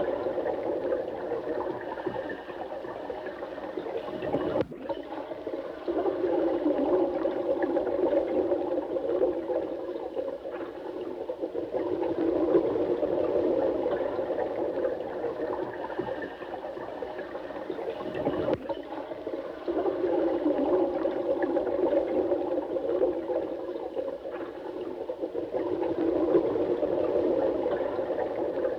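Running water flowing steadily, its rushing swelling and easing every few seconds, with a momentary break about five seconds in and again about eighteen seconds in.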